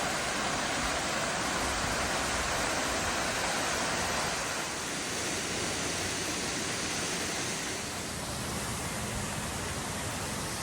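A waterfall rushing: a loud, steady roar of falling water that shifts slightly in tone twice.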